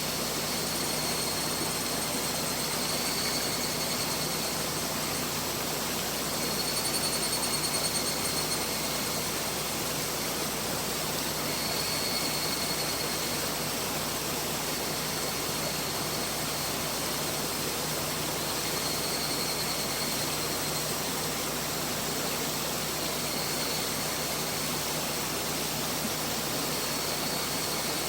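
Mountain river flowing, a steady rush of water. Faint high-pitched tones come and go over it.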